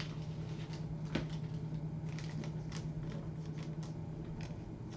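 Baseball trading cards being handled and flipped through, a scatter of light clicks and soft rustles, over a steady low hum.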